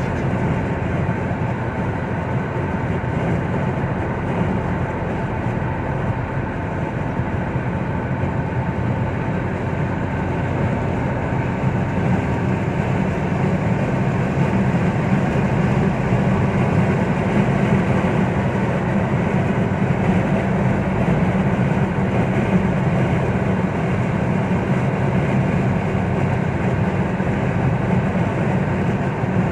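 Steady road and engine noise inside a car cruising on a motorway, a low rumble of tyres and engine that grows a little louder about halfway through.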